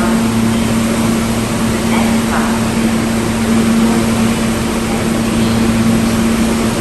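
Steady mechanical hum in a New York City subway station, a constant low tone over a broad rushing noise, with faint voices mixed in.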